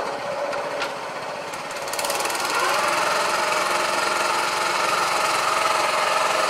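A 6.5 hp Honda-clone single-cylinder engine running in a converted tractor. About two seconds in it speeds up, and then it holds steady at the higher speed.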